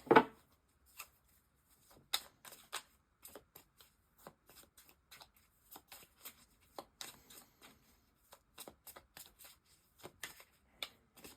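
Tarot cards being shuffled by hand: a long run of soft, irregular flicks and taps of card against card.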